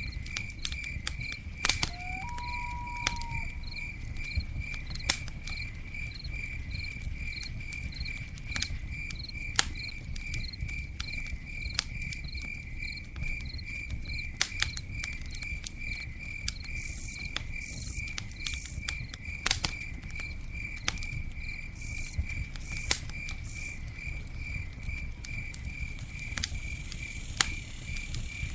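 Campfire burning with scattered sharp crackles and pops over a low steady rumble, while a cricket chirps steadily about twice a second. A short whistled note sounds about two seconds in.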